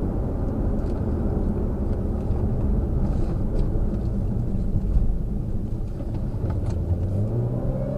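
Car engine and road noise while driving, a steady low rumble, with the engine note climbing near the end as the vehicle speeds up.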